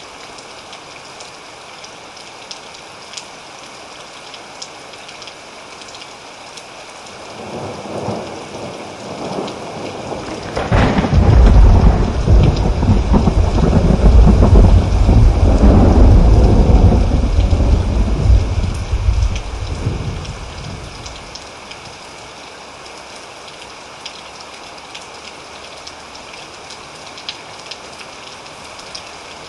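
Steady rain pattering throughout, with a roll of thunder that builds about a quarter of the way in. The thunder rumbles at its loudest for several seconds around the middle, then fades out about two-thirds of the way through, leaving the rain.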